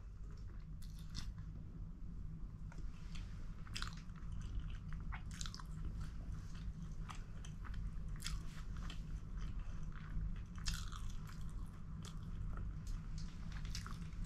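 A person chewing food close to the microphone, with many small irregular wet mouth clicks and smacks. A steady low hum runs underneath.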